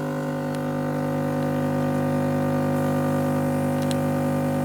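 Automatic coffee machine frothing and dispensing milk: a steady mechanical hum from its pump that holds one even pitch throughout.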